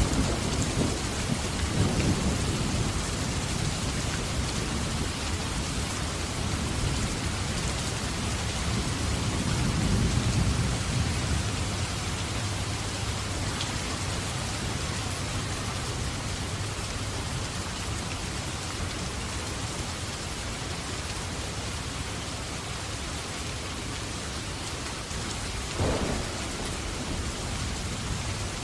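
Steady rain falling, with low rumbling swells near the start and again about ten seconds in, and a single short crack near the end.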